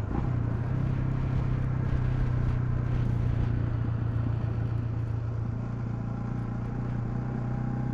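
Honda CL250 single-cylinder engine running steadily under way, its note shifting slightly a little over halfway through.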